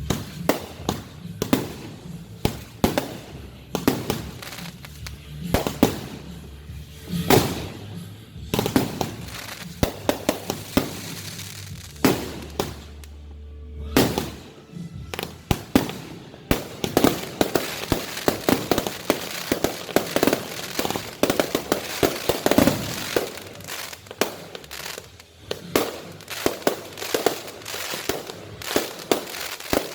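Fireworks display going off: a string of sharp bangs, thickening about halfway through into a dense run of rapid crackling pops.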